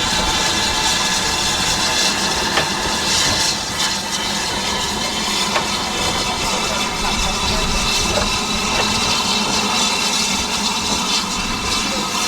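Steam locomotive hissing steadily, with a few faint clicks.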